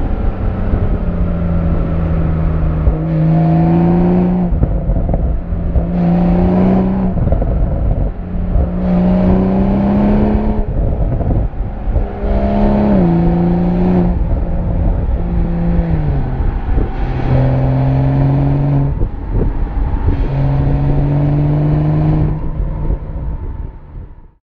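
BMW M340i's 3.0-litre turbocharged B58 straight-six, heard right at the exhaust in SPORT+ mode, pulling through repeated moderate accelerations. The exhaust note climbs and then steps down with each quick gear change of the 8-speed automatic, with a couple of downshifts as it slows. The sound fades out near the end.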